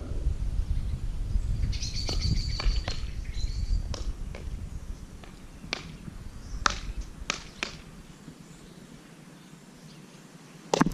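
Wind rumbling on a camera microphone, easing off through the stretch. A bird chirps in a quick series about two seconds in, and a few sharp clicks follow.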